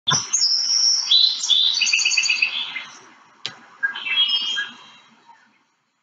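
Birdsong: high whistled notes and quick chirping trills in two runs, with a sharp click between them, fading out near the end.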